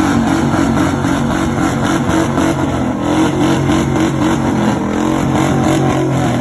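Old car's engine held at high revs, loud and steady, its pitch wavering slightly.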